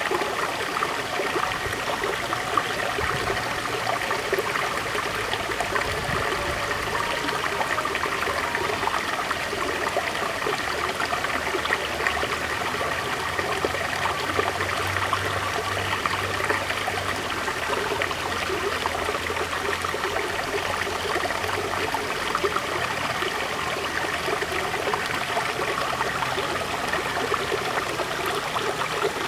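River water flowing: a steady, continuous rush of moving water.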